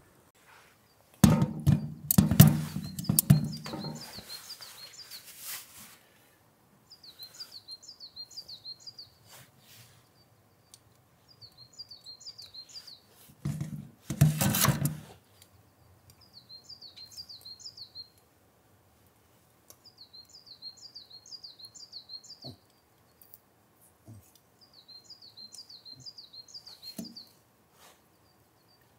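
A small songbird singing in repeated short phrases of quick, high chirps, with short pauses between phrases. Two loud bursts of noise cut across it, one of about three seconds starting about a second in and a shorter one about halfway through.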